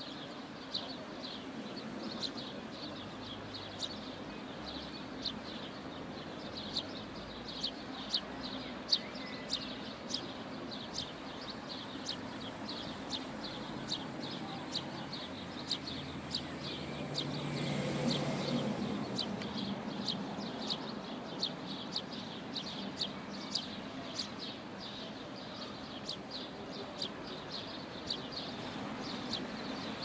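Short, high-pitched bird chirps repeating about once or twice a second over a steady background rush. A louder rush swells and fades over a couple of seconds just past the middle.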